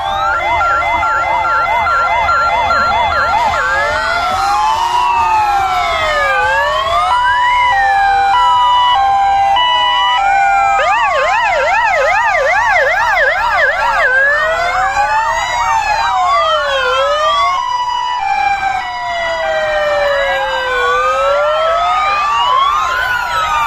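Many fire engine sirens sound at once as the vehicles drive by in a procession. Slow rising and falling wails overlap with two-tone hi-lo sirens, and a stretch of fast yelping comes about halfway through.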